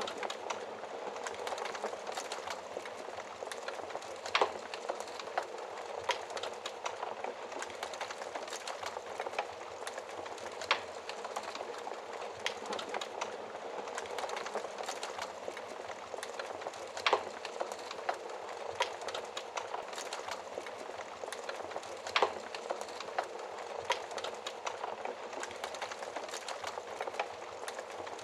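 Wood fire crackling steadily, with a sharper, louder pop every few seconds.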